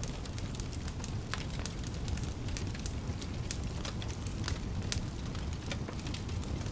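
Fireplace fire crackling: frequent irregular sharp pops and snaps over a steady low rumble of burning flames.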